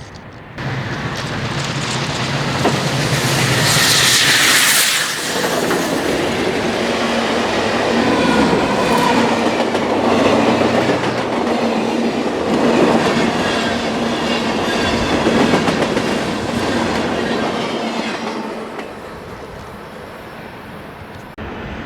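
Union Pacific Big Boy 4014, a 4-8-8-4 articulated steam locomotive, passing with its train: wheels clattering over the rail joints, a loud burst of hiss about four seconds in, and the noise dying away near the end.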